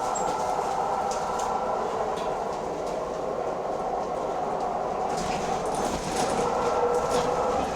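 Go-Ahead London bus SEe83 making a weird sound while running: a steady whining drone of several held tones, with light rattles over it, growing a little louder about five seconds in.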